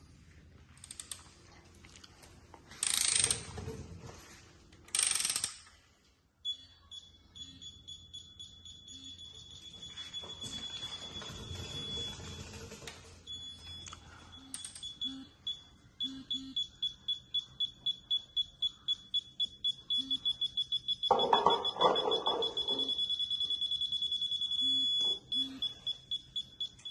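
High electronic beeping: a steady tone for several seconds, then rapid even beeps about three or four a second through the second half. A couple of short bursts of noise come in the first few seconds.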